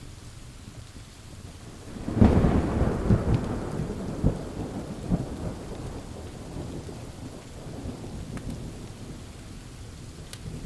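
A thunderclap breaks about two seconds in and rolls on in several low rumbles, fading over a few seconds, over steady pouring rain.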